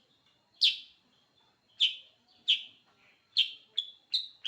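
Kutilang sutra (mountain serin) calling: a series of sharp, short chirps, each falling in pitch, about a second apart and then quicker and closer together near the end.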